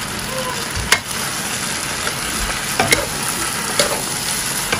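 Duck pieces in spice paste sizzling in a nonstick wok as they are stir-fried with a wooden spatula, with a few sharp clinks of the utensils against the pan.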